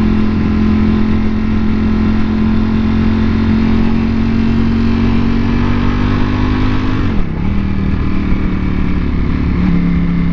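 Motorcycle engine running at steady revs, its note creeping slightly higher, then dropping sharply about seven seconds in and settling at a lower pitch.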